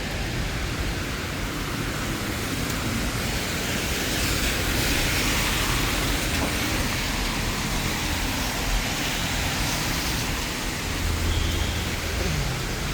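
Steady hiss of rain falling on a city street, with an uneven low rumble underneath.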